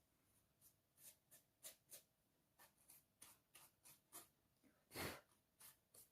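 Faint, irregular clicks and taps of small objects being handled and set down on a table, with one louder knock about five seconds in.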